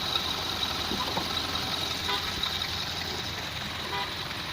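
Mitsubishi Pajero's 3.2-litre 4M41 four-cylinder turbo diesel, just started, idling steadily, with a thin steady high whine running over the rumble.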